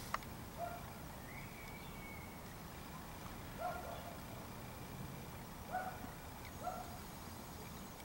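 Birds calling: a handful of short, low calls a second or two apart, and one longer, higher note about two seconds in.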